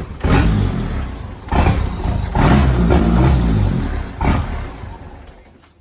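Turbocharged Chevy Cavalier engine running only on throttle blips, revving up four times, then fading out and stalling near the end. It will not idle on its own, which the owners put down to fuel starvation from a failing fuel pump.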